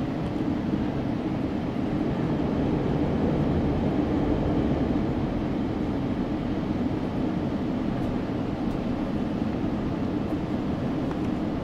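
Steady rumble of a moving GO Transit passenger train heard from on board, even and unbroken, with no horn or sudden sounds.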